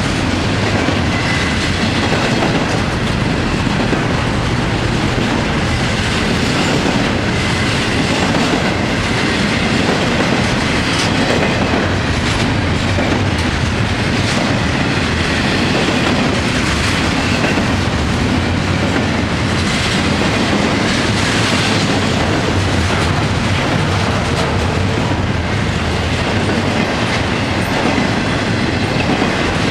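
Florida East Coast Railway freight cars rolling past at steady speed: a continuous rumble of steel wheels on rail with rhythmic clickety-clack over the rail joints.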